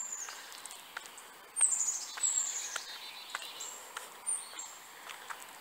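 Songbirds singing: short series of high, quickly falling chirps, a few times. Under them, light evenly spaced footsteps crunching on gravel.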